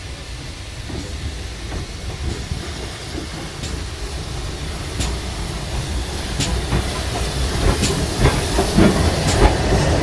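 Steam train approaching on the heritage line, its low rumble and hiss growing steadily louder, with a sharp click about every second and a half.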